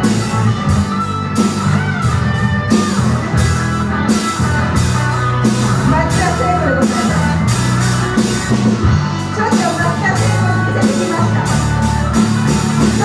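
Live rock band playing: a drum kit keeping a steady beat under a bass line, with a guitar playing a melodic lead.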